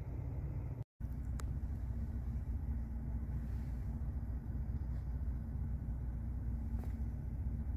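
Vehicle engine running with a low, steady rumble, broken by a brief total dropout about a second in.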